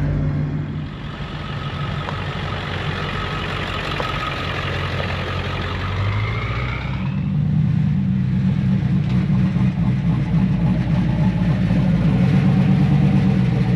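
Vehicle engine running, with a rising whine about six seconds in. The engine then grows louder into a steady low rumble from about halfway on.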